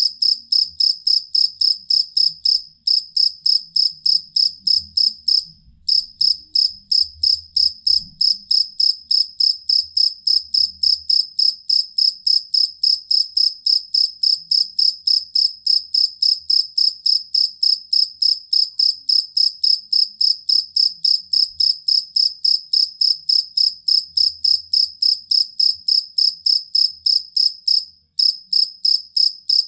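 Field cricket (jangkrik kalung) chirping steadily, about three high-pitched chirps a second, with a couple of brief pauses in the song.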